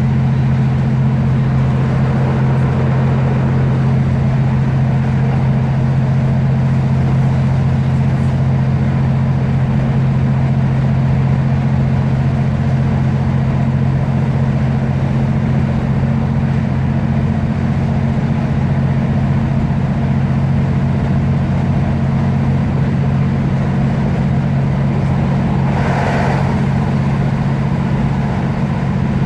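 Class 156 Super Sprinter diesel multiple unit under way, heard from inside the carriage: its Cummins six-cylinder diesel engine gives a steady deep drone under the rumble of the wheels on the track. A brief higher-pitched sound comes in near the end.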